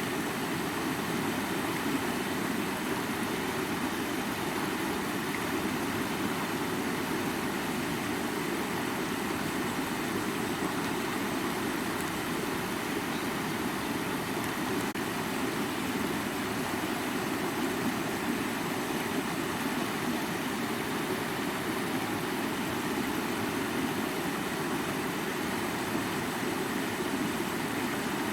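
Rushing mountain stream splashing over rocks, a steady even rush of water with no let-up.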